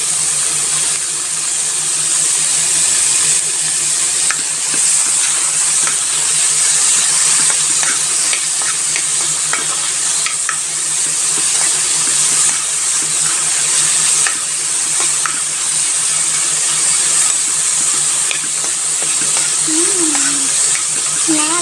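Chicken strips sizzling steadily in hot oil in a pan, stirred with a metal spoon that now and then gives a light scrape or tap against the pan.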